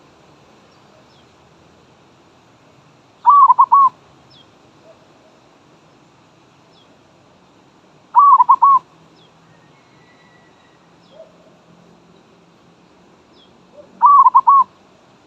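Zebra dove (merbok) cooing close by: three short, loud rippling calls of a few quick notes each, about five to six seconds apart. Faint high chirps of other small birds sound between them.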